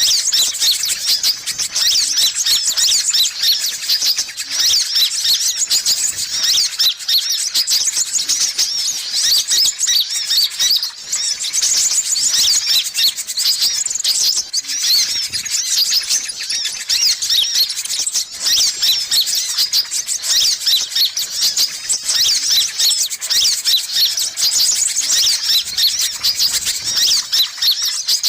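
Sunbirds calling: a continuous, busy stream of rapid, high-pitched chirps and twitters with no pauses.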